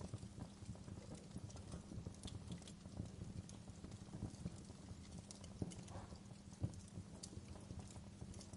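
Wood fire in a fireplace crackling, with a low rumble under a run of small irregular crackles and an occasional sharper pop.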